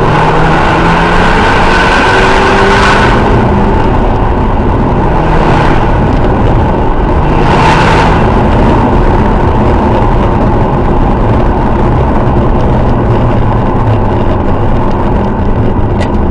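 Stage 2 tuned BMW X1 2.0i xDrive exhaust, with a D2 Racing downpipe and Magnaflow cat-back on its turbocharged four-cylinder, running loud. The engine pitch rises near the start, and there are three louder surges in the first half.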